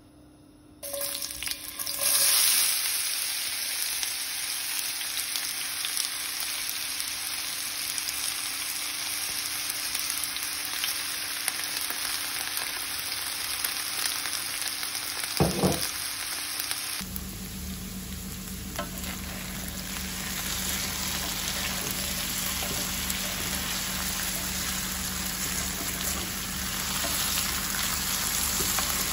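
Food frying in a pan: a steady sizzle that starts about a second in. Partway through, a low steady hum joins it.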